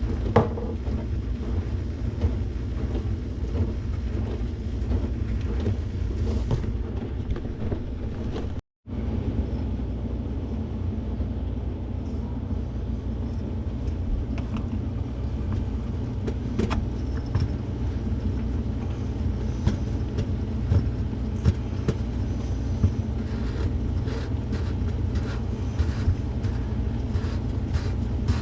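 A vehicle driving: a steady low engine and road rumble. It cuts out briefly about nine seconds in.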